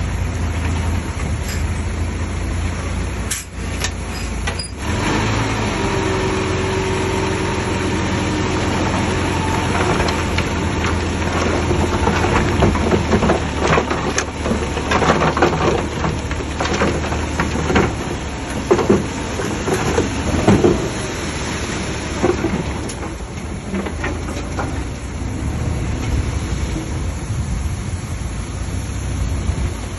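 Heavy diesel earthmoving machinery running steadily, with a spell of irregular clanks and knocks between about 10 and 21 seconds in.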